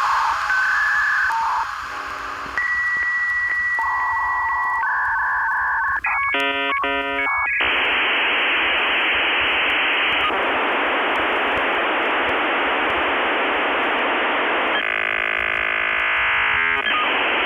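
A string of electronic beeps and steady tones, a quick burst of chirping, then a long, even hiss with a short warbling stretch near the end. All of it sounds thin and narrow, like a signal heard down a telephone line.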